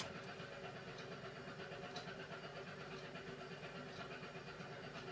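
Beko WMY81283LMB2 washing machine running its hand wash cycle: the motor turns the drum with a steady hum and an even, fine-grained rumble, with a faint tick about two seconds in.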